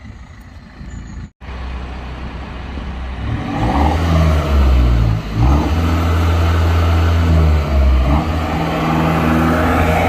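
BMW 520d's four-cylinder diesel engine running loud through a backbox-deleted quad exhaust. About two seconds in it grows louder, and its pitch rises and falls several times as the revs change.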